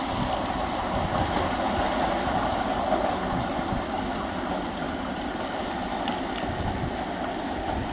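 Suburban electric multiple-unit train running along the track: a steady rumble of wheels on rails with a few faint clicks, growing slightly quieter.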